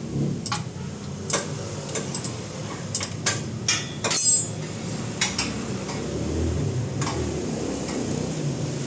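Metal tools clinking and knocking: a dozen or so sharp metallic strikes in the first five seconds, the loudest about four seconds in with a brief ring. A steady low rumble runs underneath.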